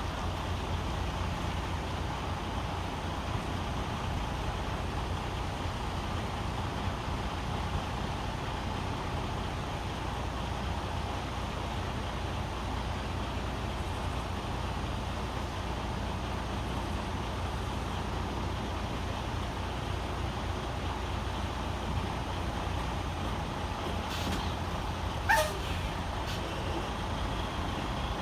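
Semi-truck diesel engine running steadily, a low rumble with a faint steady whine, heard from outside the truck. About 25 seconds in there is one brief sharp sound, rising in pitch.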